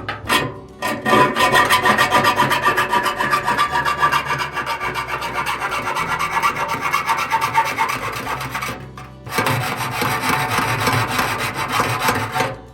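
Loud, rapid rasping strokes of a hand tool scraping or cutting through material, breaking off briefly about nine seconds in and then going on.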